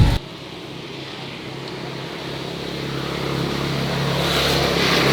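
An engine running with a steady low hum that grows gradually louder over the few seconds.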